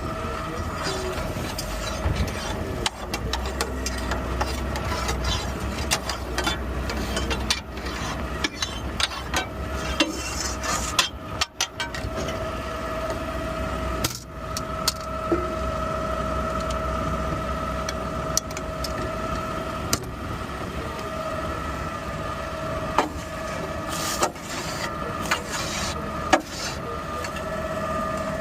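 Garbage truck running with a steady high whine, with scattered sharp knocks and rattles of metal and debris. A low rumble underneath fades out about eleven seconds in.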